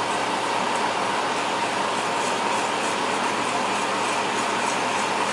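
Marsala sauce thickened with a flour slurry boiling hard in a pan: a steady bubbling hiss with small irregular pops.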